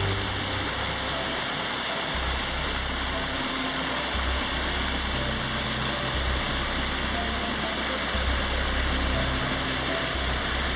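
Rushing water of a waterfall, a steady loud hiss, with soft background music of slow, low notes that change every second or two.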